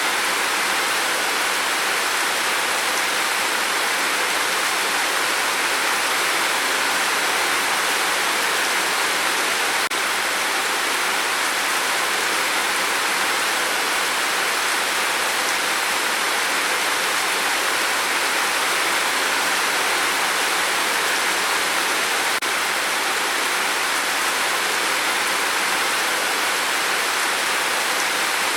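Steady, dense rain on a tin roof: an even, unbroken hiss with no single drops standing out.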